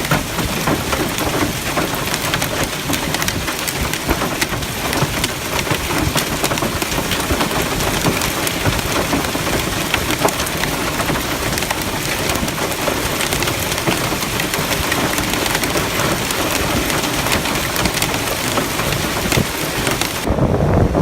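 Heavy rain pouring down, a dense hiss packed with sharp ticks of drops striking hard surfaces. About twenty seconds in it changes abruptly to a lower rushing sound.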